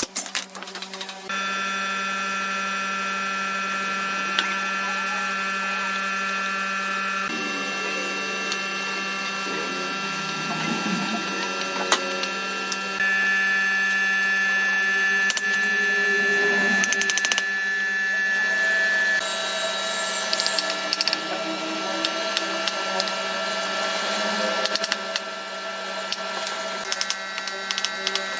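Electric woodworking power tool running with a steady motor whine, its tone shifting several times.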